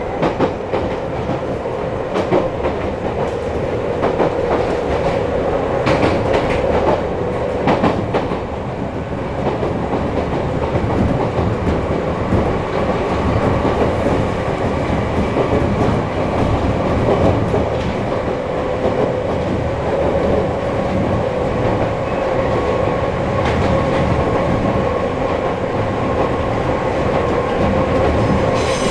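Chichibu Railway 5000 series electric train (ex-Toei Mita Line 6000, resistance-controlled) running at speed, heard from inside the car: a steady wheel-on-rail rumble with a steady hum. Rail-joint clacks come a few times, about six to eight seconds in and again later.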